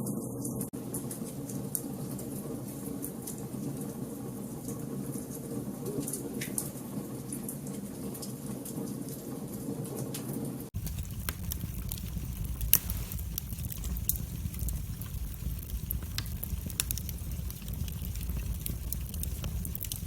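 Wood fire burning in a fireplace: a steady rushing hiss with scattered sharp crackles and pops. About halfway through, the sound changes abruptly to a deeper low rumble, with the pops still coming.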